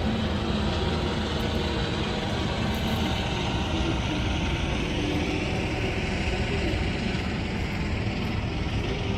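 Steady outdoor rushing noise with faint voices of people mixed in.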